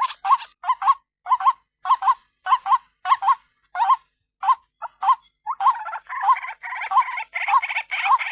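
Female white-breasted waterhen (ruak-ruak) calling: a repeated croaking call, about two to three notes a second, coming thicker and running together after about five seconds.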